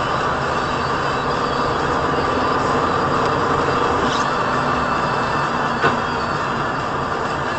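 Steady road and engine noise of a moving vehicle as picked up by a dashcam, with a single short click about six seconds in.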